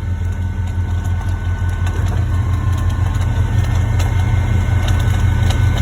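Heavy diesel engine running steadily with a deep drone, growing a little louder about two seconds in.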